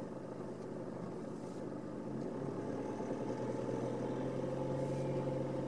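Car engine idling, heard from inside the cabin as a steady low hum. About two seconds in it rises a little in pitch and level as the car creeps forward.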